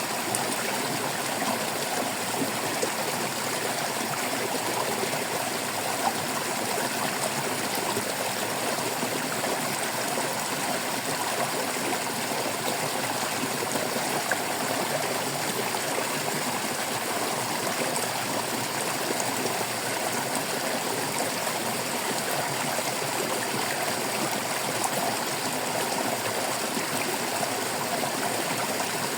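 Shallow stream of water flowing and trickling steadily, a continuous babbling with no break.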